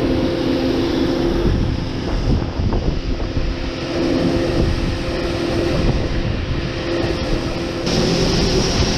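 Engine of farm harvest machinery running steadily, getting a little louder near the end.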